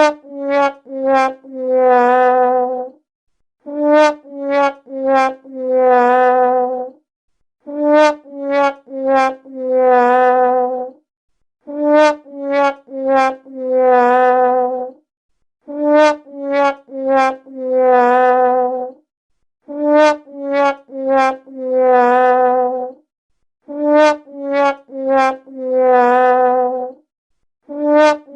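The 'wah-wah-wah-waaah' sad-trombone fail sound effect, looped: a brass instrument plays three short notes stepping down in pitch, then a longer, lower note with a wobbling vibrato. The phrase repeats about every four seconds, seven times over, with a new one starting at the very end.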